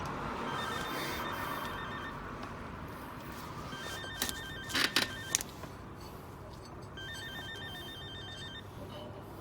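A phone ringing, a trilled two-pitch ring in repeated bursts of about a second and a half. A few sharp knocks come about four to five seconds in and are the loudest sounds.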